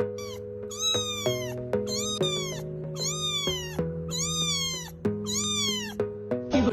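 A cat meowing six times in a regular rhythm, each meow rising slightly and then falling, over background music of sustained chords.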